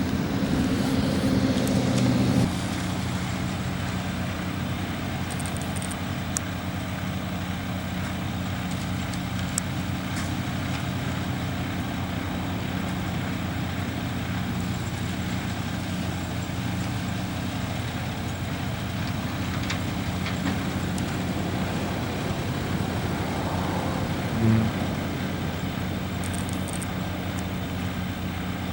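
Heavy diesel engine of a concrete truck running steadily over a constant hiss of highway traffic. It is louder for the first couple of seconds, then drops to a steady level, with a single short knock near the end.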